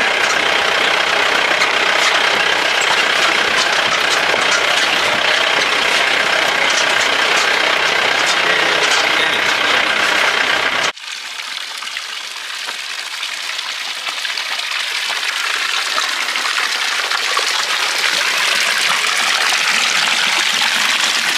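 A motor vehicle's engine running steadily for about eleven seconds, then a sudden cut to a steady rushing noise with no low rumble that slowly grows louder.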